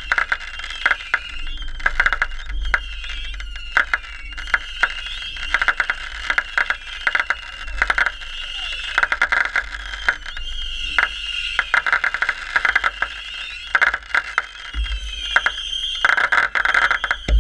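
Frogs calling in a chorus: repeated high trilling calls about once a second, with rapid clicking notes between them. Wind rumbles on the microphone underneath.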